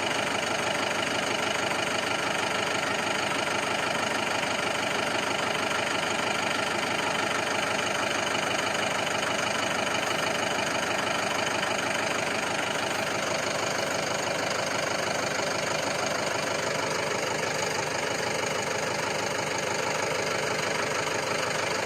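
Tractor engine running steadily at about idle.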